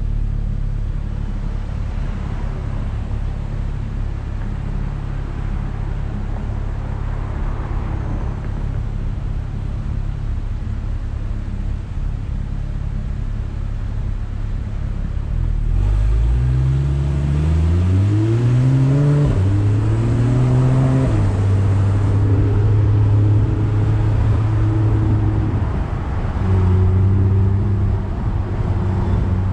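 Car engine idling steadily while stopped. About halfway through it pulls away, rising in pitch through a couple of gear changes, then settles to a steady cruise.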